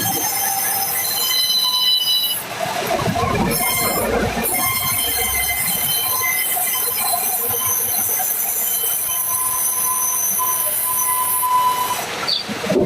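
Sawmill blade cutting through a log: a loud high-pitched metallic whine with a hiss of cutting, easing off briefly twice about two and a half and four and a half seconds in.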